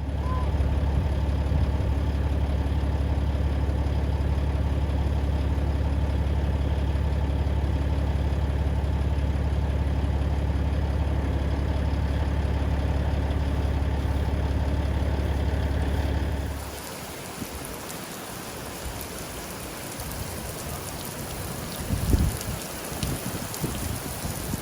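An engine idles steadily with a deep, even hum. About sixteen seconds in it gives way abruptly to steady heavy rain, with a short low rumble near the end.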